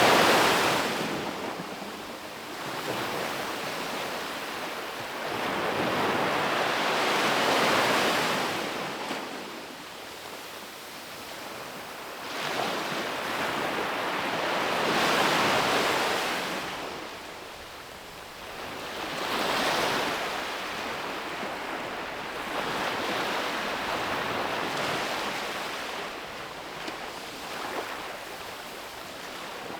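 Ocean waves breaking and washing onto a beach, the surf swelling and fading every few seconds, with some wind noise on the microphone.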